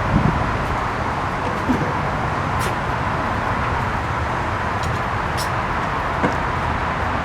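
Steady outdoor noise, like wind and distant traffic, with a faint steady hum-like tone and a few faint ticks.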